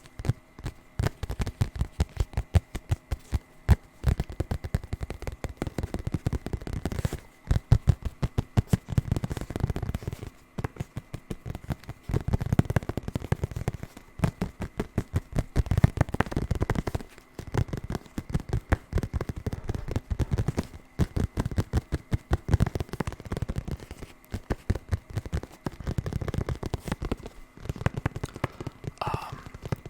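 Rapid tapping on a hard object in fast, dull-sounding runs, broken now and then by short pauses.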